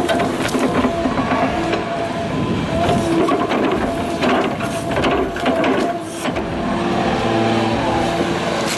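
Heavy machinery engine running under load, with repeated sharp cracks and knocks of wood or timber being torn or broken.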